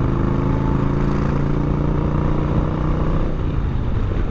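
Yamaha Bolt's 942 cc air-cooled V-twin running steadily at cruising speed under a rush of road noise; about three seconds in, the steady engine note breaks up and becomes uneven.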